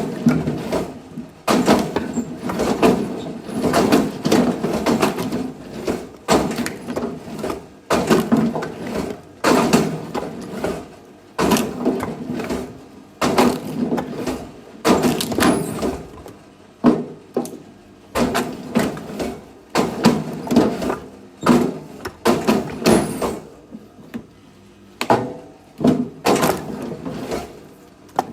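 Firewood being worked: a run of sharp wooden knocks and clatters at an uneven pace, about one every one to two seconds, with a short lull near the end.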